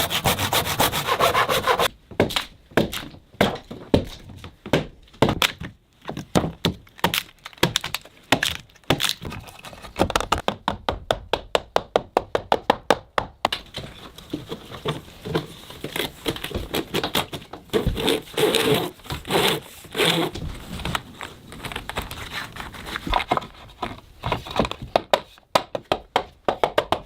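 Hand tools working timber: about two seconds of continuous rasping at the start, then a long series of sharp knocks and cracks on wood, with a fast, even run of strokes in the middle.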